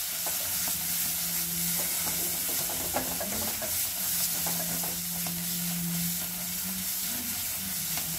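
Onion paste and ground spices frying in oil in a kadhai, with a steady sizzle, while a slotted spatula stirs and scrapes the pan. This is the masala being roasted (bhuna) for about a minute.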